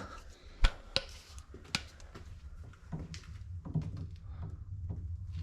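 A few sharp clicks and knocks as plumbing parts and tools are handled, three of them in the first two seconds with the first the loudest, over a low steady hum.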